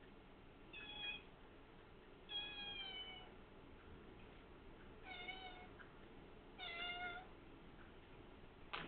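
A cat meowing four times, short calls of under a second each, spaced a second or two apart, followed by a single sharp click near the end.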